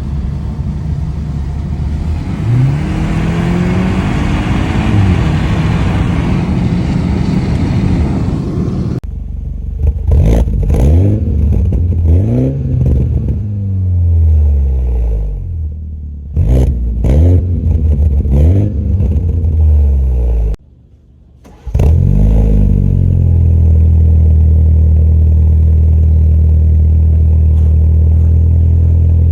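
BMW F30 320xi's B48 turbocharged four-cylinder through a Borla exhaust, revved again and again in quick rises and falls. The first several seconds have a rush of noise over the engine. Near the end it settles into a steady idle.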